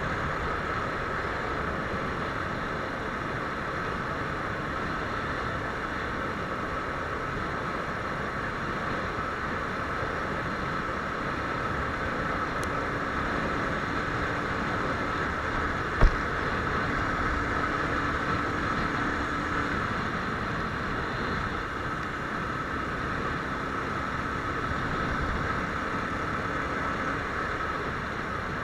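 Viper R2 motorcycle running at a steady pace, its engine blended with a steady rush of noise. A single sharp knock comes about halfway through.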